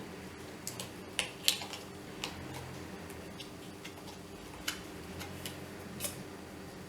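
Light, irregular clicks and taps of small plastic and metal parts being handled as a travel kettle's thermostat is set in place, about ten in all, unevenly spaced.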